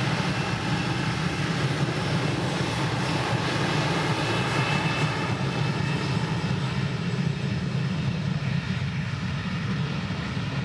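Airbus A321 jet engines at takeoff power, a steady rumble with a faint high whine, gradually fading over the last few seconds.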